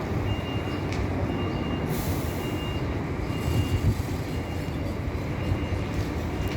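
Scania coach engine running with a low rumble, while a reversing beeper sounds about once a second. A short hiss of released air comes about two seconds in.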